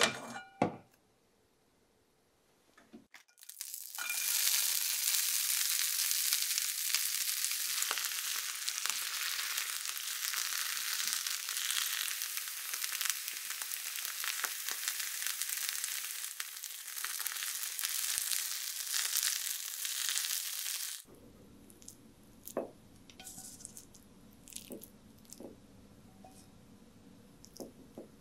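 Spinach frying in sesame oil in a hot frying pan: a loud, steady sizzle that starts a few seconds in and cuts off abruptly about two-thirds of the way through. A few sharp clicks come just before it, and scattered light clicks after it.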